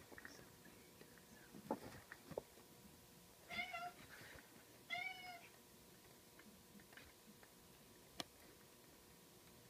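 Two short, wavering meow-like animal calls about a second and a half apart, with a few faint clicks and taps before and after, in near quiet.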